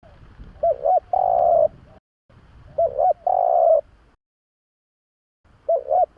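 Spotted dove (Streptopelia chinensis) cooing: three phrases about two and a half seconds apart, each two short coos and then a longer held coo, the last cut off at the end.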